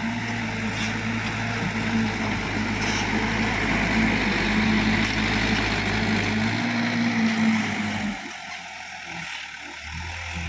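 Mitsubishi Super HDX dump truck's diesel engine running with a steady hum and broad mechanical noise. It becomes much quieter about eight seconds in.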